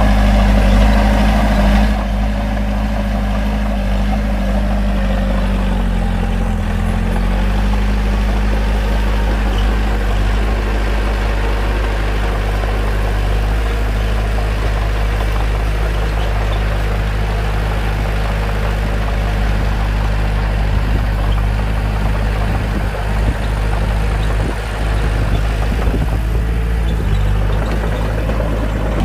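Bulldozer's diesel engine running steadily, its pitch dipping briefly about six seconds in.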